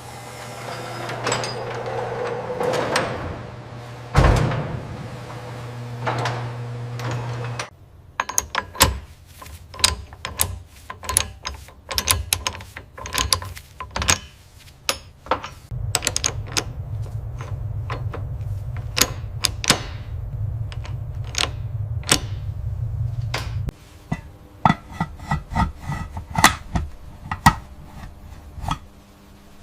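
A steady electric motor hum for the first several seconds, then a long run of small sharp clicks and knocks from hand work on small hard parts, with the motor hum returning for a stretch midway.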